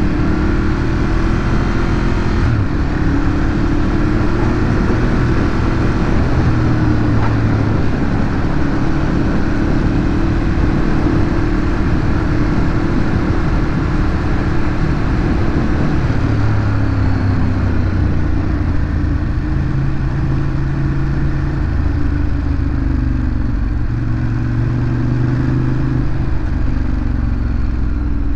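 Ducati Monster 821's L-twin engine running through its stock exhaust under way, its pitch dipping and rising a little with the throttle.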